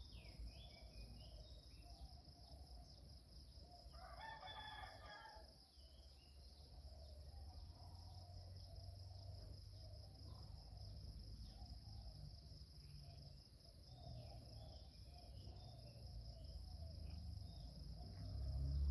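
A rooster crows once, about four seconds in, over a steady high-pitched drone of crickets and faint scattered bird chirps.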